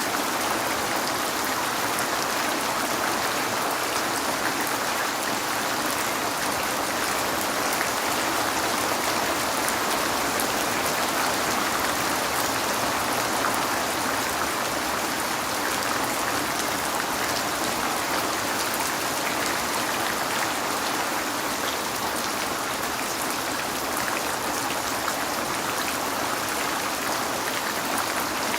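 Steady heavy rain falling and pattering on a window, a dense even hiss with fine drop ticks.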